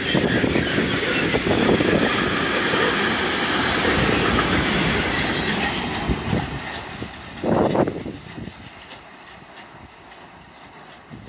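Freight train wagons rolling past, wheels clattering over the rail joints, the noise fading after about six seconds as the end of the train goes by. There is a brief louder clatter about seven and a half seconds in.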